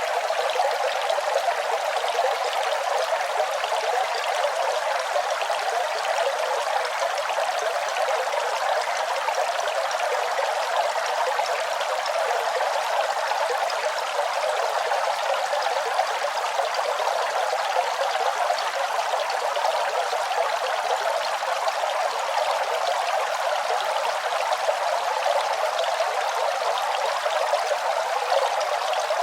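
Running water: a steady, unbroken rush of flowing and splashing water with no deep rumble, unchanging throughout.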